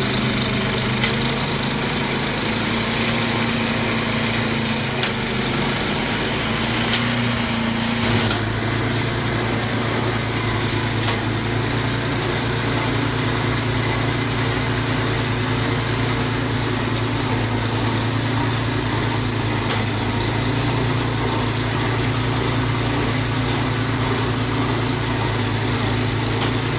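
Snowblower's small engine running steadily. About eight seconds in its note changes and the lower part grows heavier.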